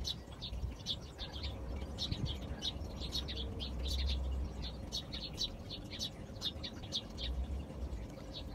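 Small birds chirping, many short high chirps a second, over a low rumble that swells about four seconds in and again near the end.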